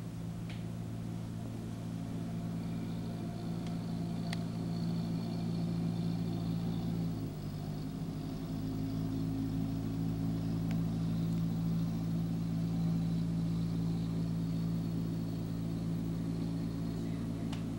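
A motor running steadily with a low droning hum, its pitch wavering and shifting briefly about seven to eight seconds in, with a few faint clicks.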